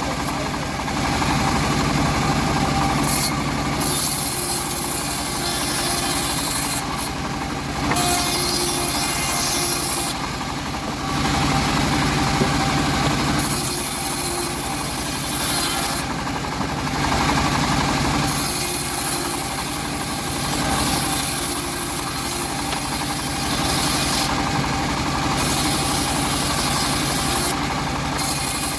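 Homemade engine-driven bandsaw mill running steadily while its blade saws old teak wood. The cutting hiss rises and falls every few seconds over the engine's constant hum.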